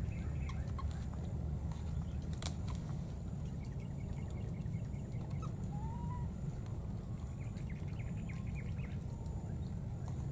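Faint bird calls: a single short rising-and-falling call about halfway through, then a run of quick chirps. Under them runs a steady low rumble and a thin, steady high whine, with one sharp click early on.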